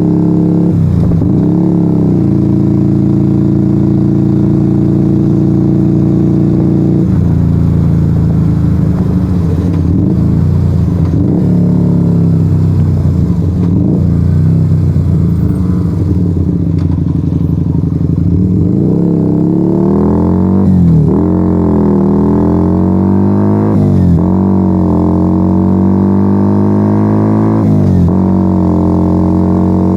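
Yamaha XV125 Virago's air-cooled V-twin on the move, running loud through a straight-piped Turbo Kit exhaust with no dB killers. It holds a steady note for the first half, then the revs rise and fall several times with the throttle.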